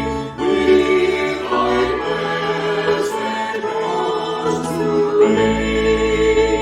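Choir singing a slow piece of church music in sustained, held chords that change every second or two.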